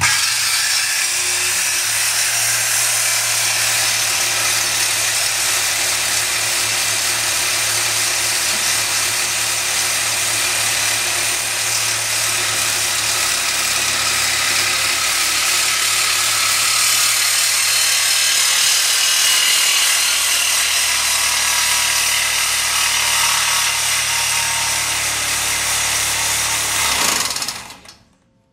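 Reciprocating saw (Sawzall) running steadily as it cuts through a metal pipe, then cutting out near the end.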